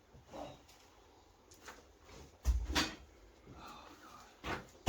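A few scattered knocks, with one louder, heavier thump about two and a half seconds in.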